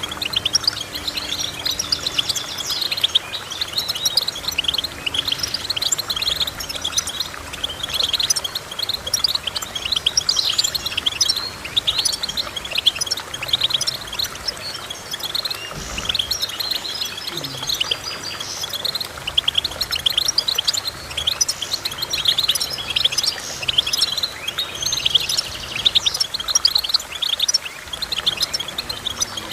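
Goldfinch song: a dense, rapid run of chirps and twitters that goes on without a break. A brief low thump comes about halfway through.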